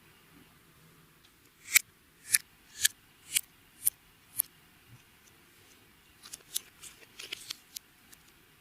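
Clear slime being worked by hand, giving sharp popping clicks: six evenly spaced pops about twice a second, then a quicker run of smaller clicks near the end.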